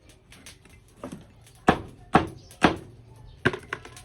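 Knife chopping chicken on a cutting board: about six sharp, heavy strikes, roughly half a second apart, starting about a second in.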